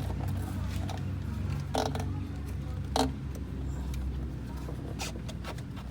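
Car engine running steadily with a low, even hum, with a few sharp clicks or knocks over it.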